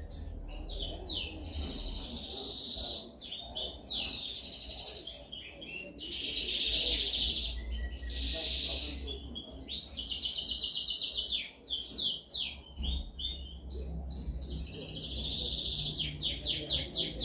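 Domestic canary singing a long, unbroken song of fast trills and rolling phrases, one after another, ending in a run of rapid repeated notes. A faint low hum runs underneath.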